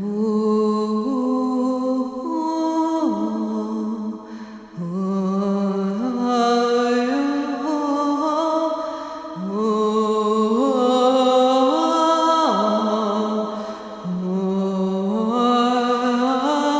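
Wordless chanting by a single voice, in repeated phrases that climb step by step and then slide back down, a new phrase starting about every four to five seconds.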